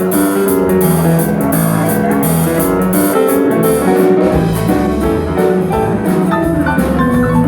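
A live band playing the instrumental intro of an upbeat song: keyboard chords over a steady drum beat.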